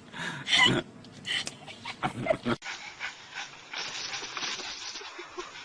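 A dog making a few short loud vocal sounds in the first two and a half seconds, after which the sound switches abruptly to a steadier hiss with faint sounds in it.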